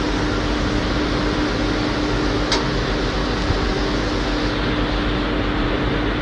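A machine running steadily, with a constant low hum over an even hiss and one short click about two and a half seconds in.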